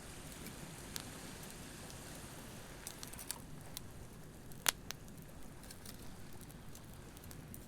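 Beach campfire crackling with scattered sharp pops, one louder snap about two-thirds of the way through, over a steady low wash of surf.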